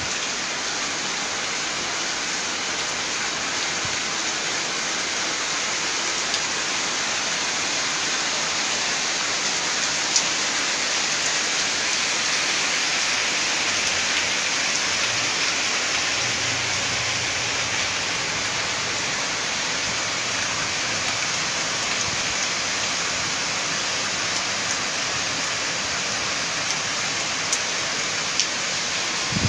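Torrential monsoon rain pouring down, a steady, even hiss of downpour with a few faint drop ticks.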